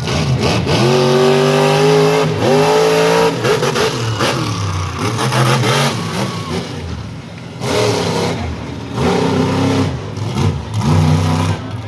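Monster truck engine revving hard in repeated bursts, its pitch climbing and falling again and again, with short dips between the throttle blips.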